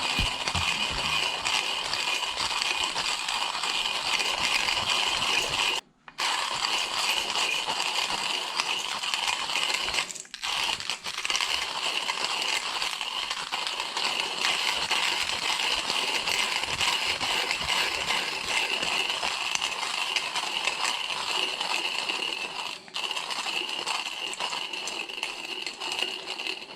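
Timemore Chestnut C2 hand-cranked burr coffee grinder grinding a dose of coffee beans, a steady grinding sound with three brief breaks, near 6, 10 and 23 seconds in.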